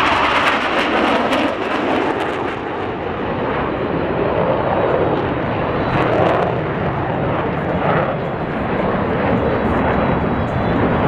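Boeing F/A-18 Super Hornet jets flying by at an air show: a loud, continuous jet roar that swells and eases as they pass.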